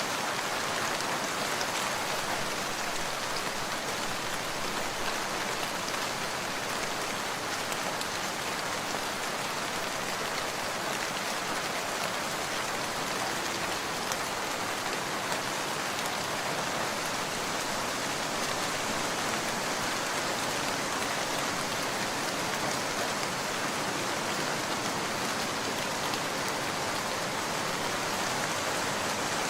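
Steady rain falling, an even hiss of drops with a few faint scattered ticks.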